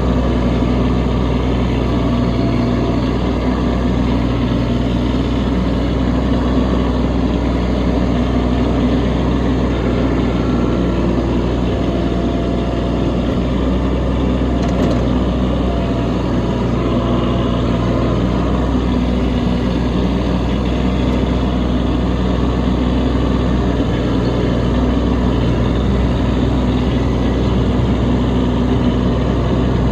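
Kubota B2601 compact tractor's three-cylinder diesel engine running steadily under load while moving snow.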